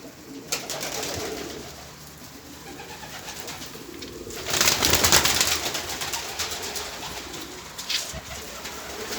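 Domestic pigeons cooing, with a loud burst of rustling noise about halfway through and a few sharp clicks near the end.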